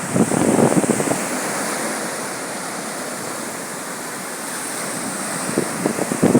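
Sea waves washing onto a sandy beach, with wind buffeting the microphone in gusts near the start and near the end.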